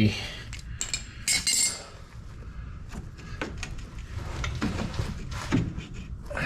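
Scattered metallic clinks and knocks from steel parts and tools being handled, with a cluster of sharper taps about a second in.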